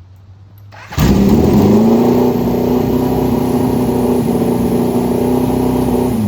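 Motorcycle engine starting about a second in, its pitch rising briefly and then settling into a steady idle.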